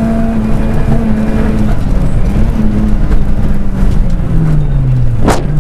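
Honda Civic rally car's engine, heard from inside the cabin, running at steady high revs along a straight. Near the end the revs fall away as the car slows for a chicane, and a single sharp crack comes just before the end.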